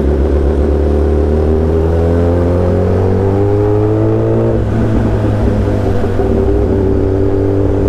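Motorcycle engine accelerating, its pitch rising steadily for about three and a half seconds, then dropping off suddenly and running on at a steady note, over a steady low rumble of wind and traffic.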